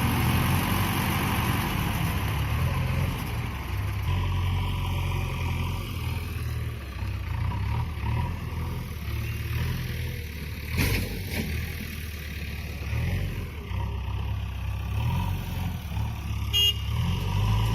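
Mahindra 585 DI tractor's diesel engine running under load, its pitch shifting up and down. A sharp knock comes about 11 seconds in.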